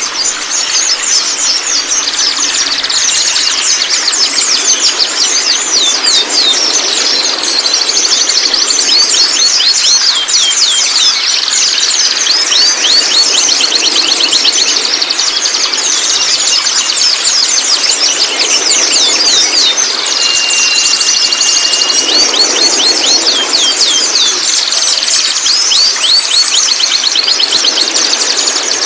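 Juvenile white-rumped shama chattering and twittering nonstop: a dense stream of quick, high, falling chirps, with one short level whistle about twenty seconds in. This is the kind of recording bird-keepers play to prompt a young shama to sing.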